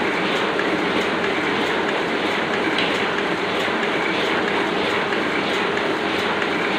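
Oliver offset printing press running at its normal steady pace: a continuous mechanical clatter with a regular, repeating tick.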